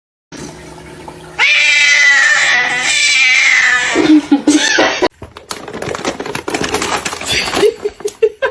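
Domestic cat yowling: one loud, drawn-out call lasting about two and a half seconds, then a couple of shorter cries. After that come scattered clicks and knocks.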